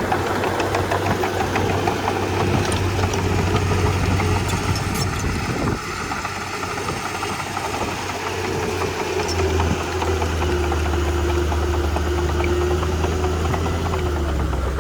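Komatsu D31P bulldozer's diesel engine running, with a steady low hum and scattered light clicks. The level dips about six seconds in, then the engine runs louder and lower from about nine and a half seconds.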